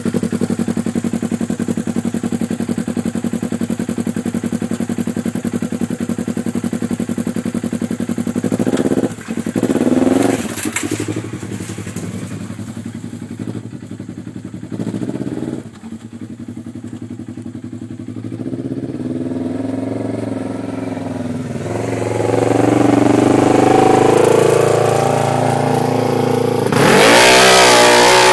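Polaris RZR 900 XP's twin-cylinder engine through a custom exhaust, idling steadily, then revved briefly a couple of times about nine to eleven seconds in. It then pulls away, its pitch rising and falling as it accelerates through the gears, with the loudest, hardest acceleration near the end.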